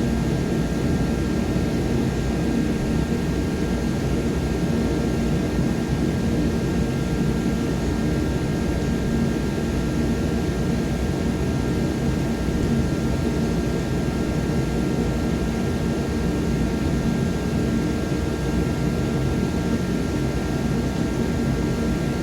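Garage space heater running, a steady rushing noise with a low hum and a few faint steady tones that do not change.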